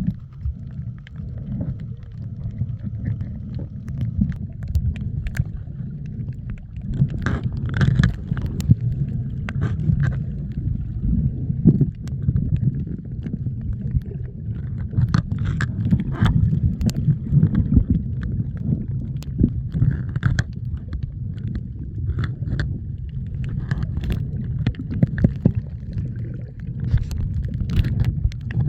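Water sloshing and gurgling, a dense muffled low rumble, with scattered sharp clicks and splashes.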